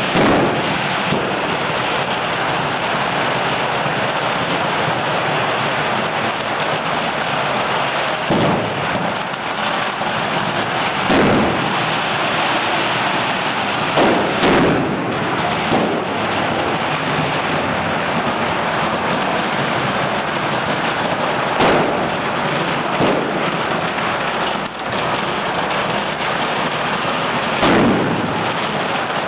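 A large bonfire crackling steadily, with bangers (firecrackers) going off every few seconds over it, about ten sharp bangs in all.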